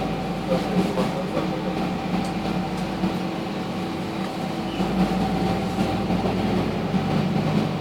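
Interior running noise of a moving passenger rail car: a steady rumble with a constant motor hum and whine.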